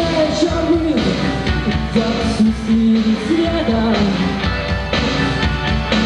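Live rock band playing a song, with a steady drum beat under held melody notes.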